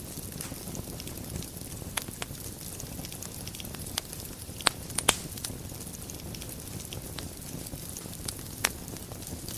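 Wood fire burning in a fireplace: a steady low rumble under scattered crackles, with a few sharp pops, the loudest a pair about five seconds in.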